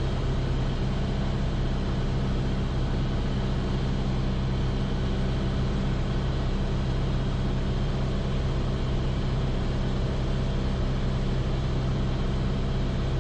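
Steady drone of a Piper Archer's four-cylinder piston engine and propeller in level flight in the traffic pattern, heard in the cockpit through the pilot's headset audio.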